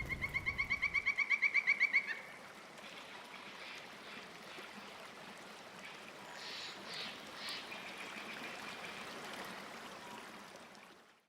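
Nature ambience: a rapid trilling animal call for about two seconds, then a stream's steady trickle with a few faint bird chirps, fading out at the end.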